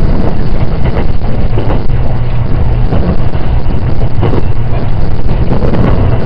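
Interior ride noise of a JR 681 series electric train running on the line, heard from inside the passenger car: a loud, steady low rumble from the wheels and rails, with irregular knocks.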